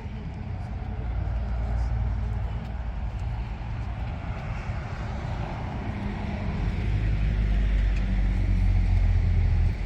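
A car engine running with a low, steady note, getting louder about two seconds in and again toward the end, then dropping off abruptly just before the end.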